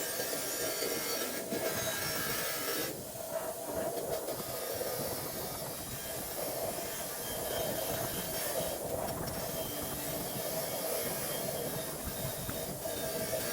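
Small power-driven wire wheel scrubbing a steel suspension part clean: a steady whine with a hiss of bristles on metal, its intensity shifting as the part is worked.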